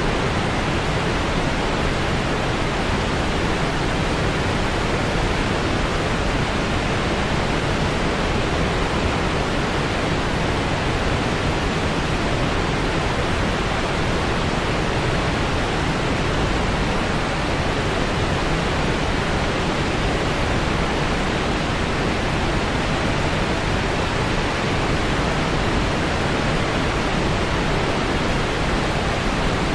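Steady white-noise track: an even, unchanging hiss, weighted toward the low end like pink noise.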